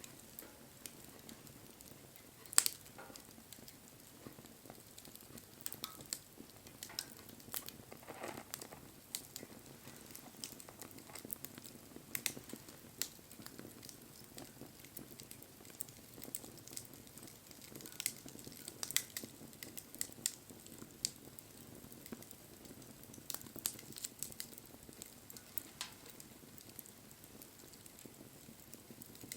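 Wood bonfire crackling: a soft steady hiss with scattered sharp pops and snaps, one louder pop about two and a half seconds in.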